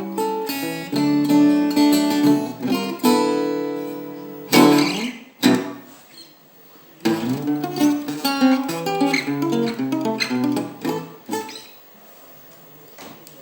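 Acoustic guitar played fingerstyle in Travis picking, an alternating bass under melody notes. A sharp strummed chord comes about four and a half seconds in and rings off. The picking starts again a second or two later and fades out near the end.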